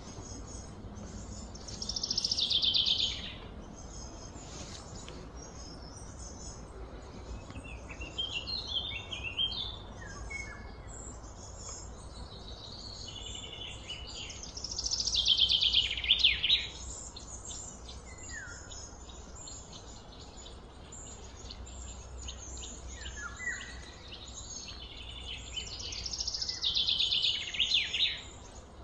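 Bird song outdoors: a loud, high phrase that sweeps downward, repeated three times about twelve seconds apart, with softer chirps between, over a steady low background hum.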